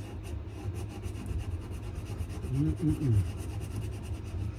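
Sandpaper rubbing against a wenge and maple knife handle in quick, even back-and-forth strokes.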